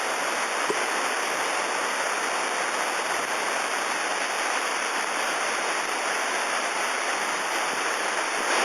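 Steady rain falling, an even rushing hiss that holds at one level throughout.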